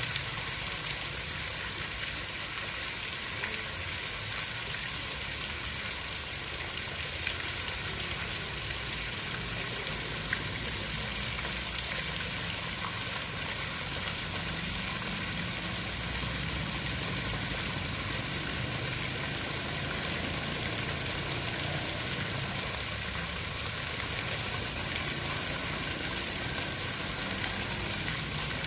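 Steady water noise, a dense even hiss with a low rumble underneath and the odd faint tick, unchanging throughout.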